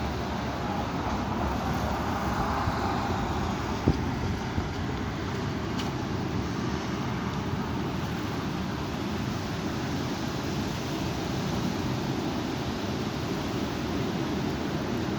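Strong wind blowing against the microphone, a steady low rumble that swells briefly about two seconds in. A single sharp knock comes about four seconds in.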